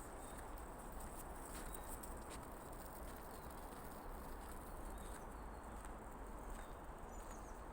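Faint short bird chirps over a steady low background rumble of outdoor noise, with occasional soft clicks.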